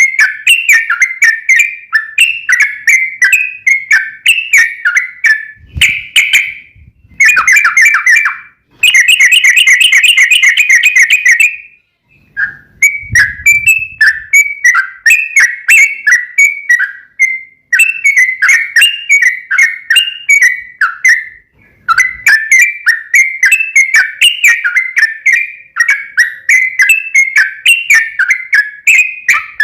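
Yellow-vented bulbul (trucukan) singing in rapid strings of bubbly chirping notes. About nine seconds in there is a dense, even trill lasting about three seconds: the long 'ropel' roll.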